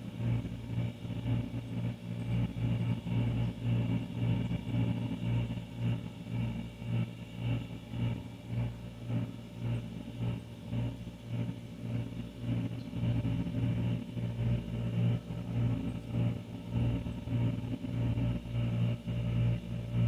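Older refrigerator running with a steady low hum that pulses about twice a second.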